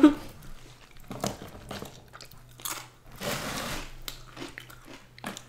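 Close-miked mukbang eating sounds: crunchy bites and chewing, with scattered crackles as thin-crust pizza is pulled apart by hand.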